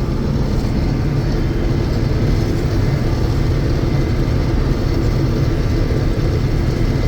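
1982 John Deere 6620 Turbo combine running steadily while harvesting soybeans: a constant low engine and machinery hum with no change in pitch.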